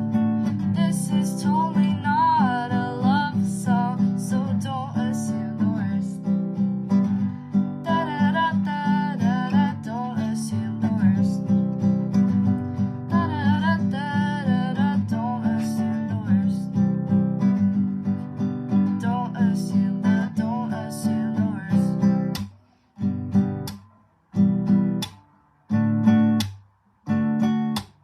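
Acoustic guitar strumming chords, with a wavering wordless vocal line over it at times. From about 22 seconds in, the strumming breaks into a string of single chords, each struck and cut off short with silence between, closing the song.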